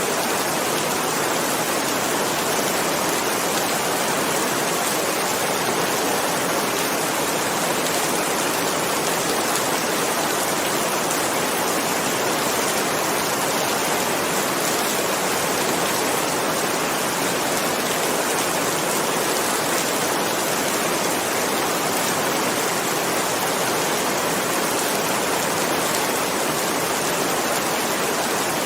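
Steady rain falling, an even hiss that holds at the same level throughout, with no thunder.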